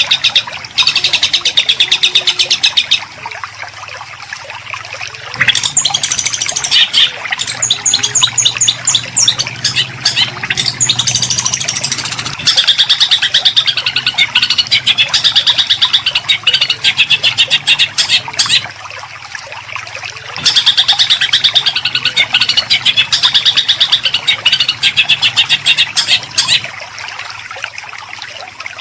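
Songbird singing dense, harsh rapid-fire note series, about four bursts of several seconds each with short breaks between them.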